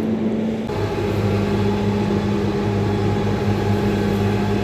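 Engine of a farm machine running steadily just after a cold start, warming up.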